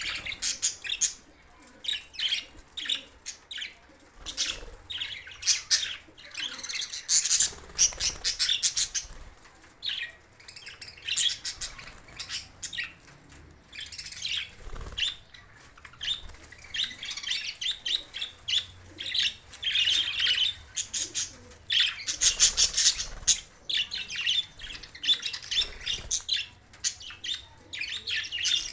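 Budgies chirping and chattering in quick runs of sharp, high-pitched calls, with brief pauses between runs.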